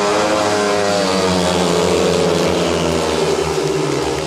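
Several speedway motorcycles' 500 cc single-cylinder engines racing together through a bend, their pitch rising and falling as the riders throttle on and off.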